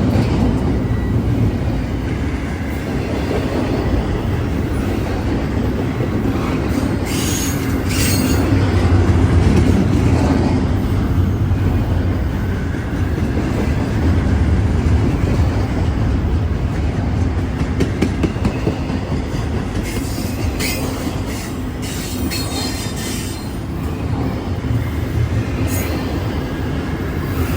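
A train rolling past: a steady low rumble of the cars with clacking over the rail joints, and high-pitched wheel squeal breaking in now and then, most around a quarter of the way in and again late on.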